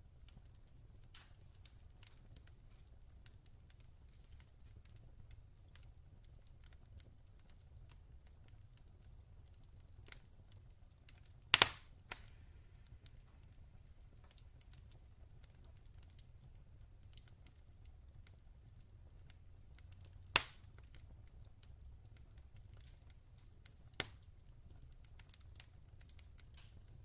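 Log fire crackling: scattered small ticks with three sharper pops, a double one about twelve seconds in, then others at about twenty and twenty-four seconds, over a low steady rumble.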